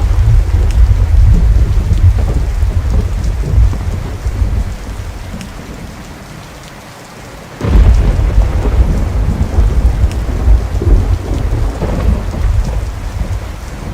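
Thunder rumbling over steady rain. One long roll fades away over the first seven seconds or so, then a new peal breaks in suddenly a little past halfway and rolls on.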